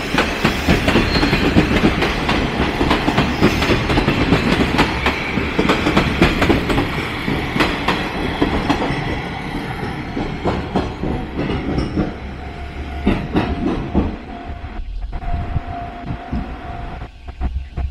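A passenger train passing close by over a level crossing, its wheels clattering rapidly over the rail joints, then dying away over the last few seconds.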